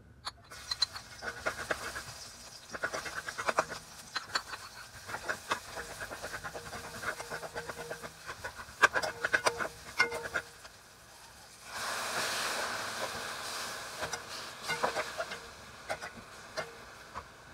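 Garlic and onion sizzling in hot oil in a pan, with a spatula clicking and scraping against the pan as they are stirred. About twelve seconds in, a sudden louder sizzle starts as pieces of raw pork belly go into the hot oil, and it fades somewhat as they are stirred.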